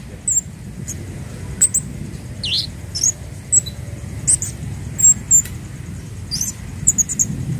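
Scarlet-headed flowerpecker (kemade, Javan 'cabe Jawa') giving short, very high, thin chirps at irregular intervals, some sliding in pitch, over a steady low background hum.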